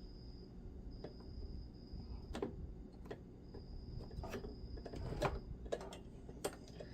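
Scattered light clicks and taps of small parts being handled while a model train locomotive motor is taken apart, with a faint high whine coming and going.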